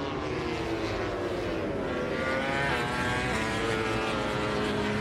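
MotoGP racing motorcycle engines at high revs, several overlapping engine notes whose pitch slides up and down as the bikes pass.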